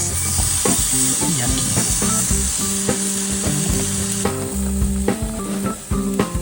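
Meat sizzling as it cooks, a steady high hiss, with background music playing over it.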